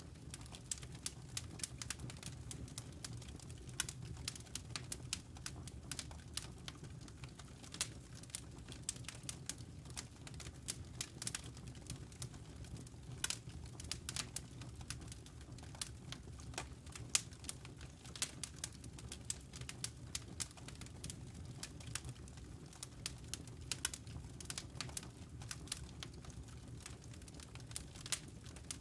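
Campfire burning, with many irregular sharp crackles and pops from the wood over a low steady rumble of the flames.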